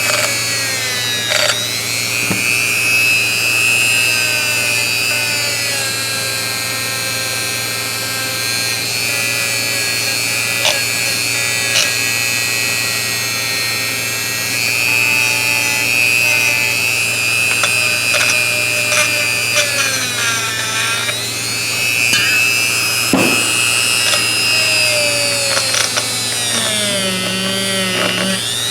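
Small power tool spinning a brush against a steel adjustable wrench to scrub it clean. It gives a steady high whine that sags in pitch several times as the brush is pressed into the work, most clearly about two-thirds of the way through and near the end.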